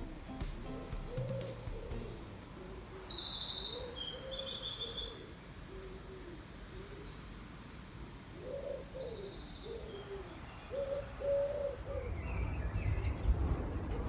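Garden birds: small songbirds chirping in fast high trills, loudest for the first five seconds or so and fainter after, while a pigeon coos in low, repeated phrases.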